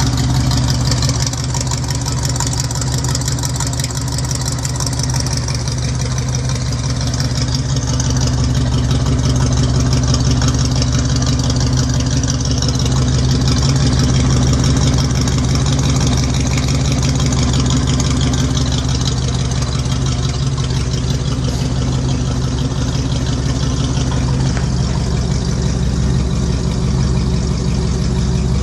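1964 Chevrolet Impala's engine idling steadily.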